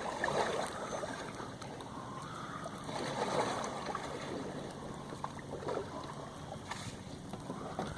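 Water sloshing and lapping against a kayak on the water, swelling softly every couple of seconds.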